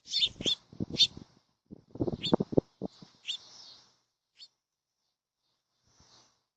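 Small songbirds at a feeder giving short, sharp, high chirps, several in quick succession over the first four seconds, then one more near the end. A run of low thumps is mixed in during the first few seconds.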